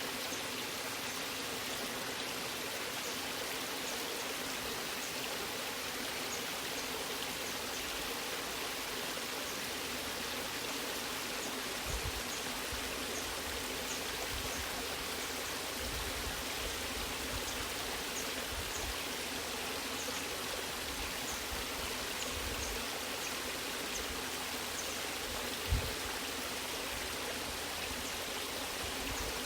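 Waterfall: a steady rush of falling water, with a couple of brief low thumps, the clearest near the end.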